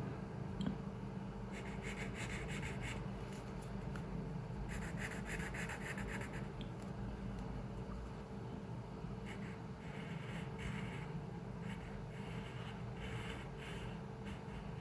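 Pencil drawing on paper: runs of scratchy strokes that start and stop, a few seconds at a time, over a steady low room hum.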